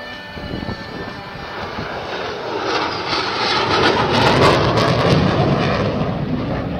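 Jet noise of a General Dynamics F-111's twin TF30 turbofan engines as the aircraft flies past. It grows louder to a peak about four to five seconds in, then fades.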